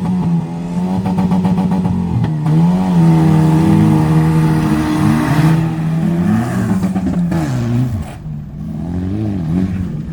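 Rallycross car engines revving hard, their pitch rising and falling with throttle and gear changes, more than one engine at times. The engine note drops about eight seconds in, then climbs again.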